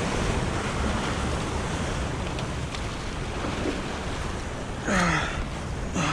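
Ocean surf washing and wind blowing on the microphone. About five seconds in comes a short call that falls steeply in pitch.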